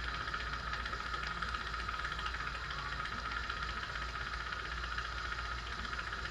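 Steady machine hum with a whirring hiss, unchanging throughout.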